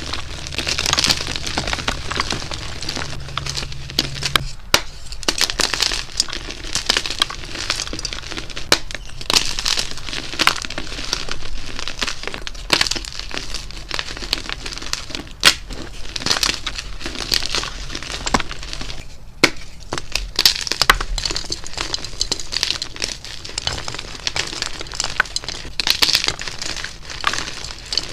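Blocks of soft, dyed gym chalk being crushed and crumbled, a dense run of dry crunching and crackling with brief pauses twice. A low hum sits under the crunching for the first few seconds.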